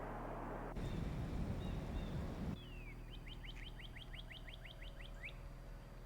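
A songbird singing a quick run of about a dozen downslurred notes over a steady low hum. Before the song, a low rumble starts suddenly and cuts off abruptly.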